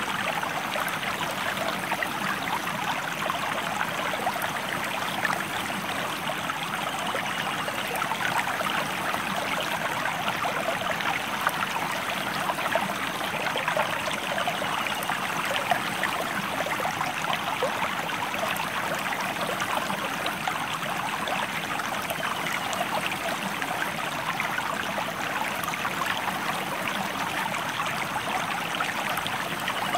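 Stream water flowing and splashing over rocks, a steady rushing with fine bubbling detail.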